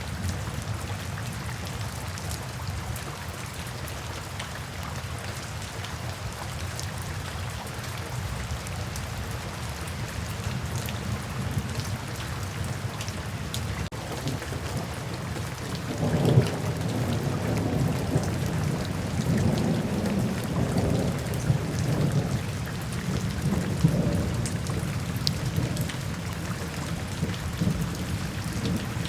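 Steady rainfall with a roll of thunder. The thunder starts a little past halfway, rumbling low and swelling and easing for several seconds before it dies back under the rain.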